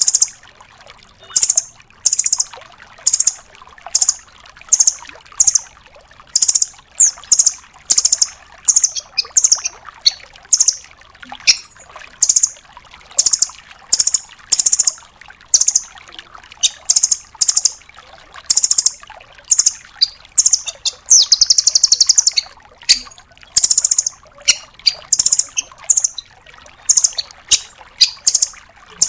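Velvet-fronted nuthatch calling: loud, short, high chips repeated in quick runs, with a longer buzzy rattling trill about three-quarters of the way through.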